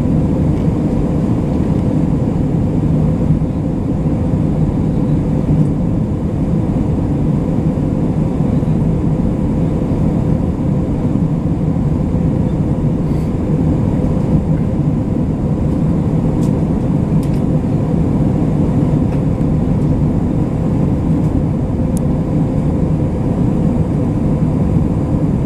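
Steady cabin drone of an Airbus A320 in flight: jet engine and airflow noise, deep and even, with a faint steady hum over it.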